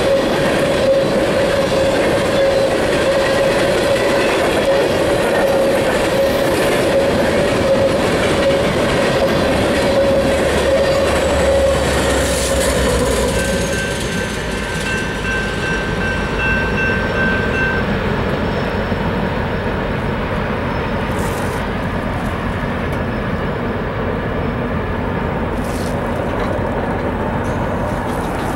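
Empty coal cars of a freight train rolling past, with wheels clattering over the rails and a steady wheel squeal. About halfway through, the rear pushing EMD SD70ACe diesel locomotive passes and the sound drops a little as the train moves away.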